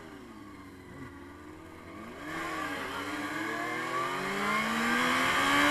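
Inline-four sport motorcycle engine, the pitch easing down for about two seconds, then climbing steadily and growing louder as the bike accelerates.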